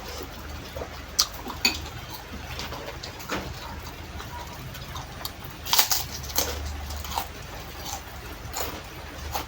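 Close-up eating sounds: a spoon clinking against a bowl, and chewing, in scattered short clicks. There is a busier cluster about six seconds in.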